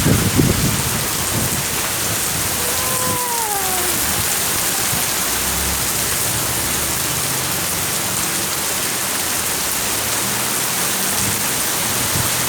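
Heavy rain pouring steadily. A few low knocks come right at the start, and a short falling tone sounds about three seconds in.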